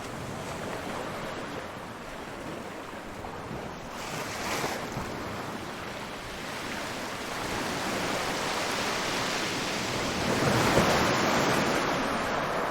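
Ocean surf: waves breaking and washing in a steady rush, with a louder wave crashing about ten seconds in and easing off near the end.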